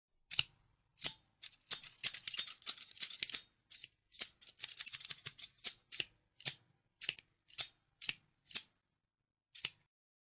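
Scissors snipping, sharp crisp cuts. Single snips are spaced about half a second apart, with quicker runs of rapid cutting about one and a half seconds in and again near the middle.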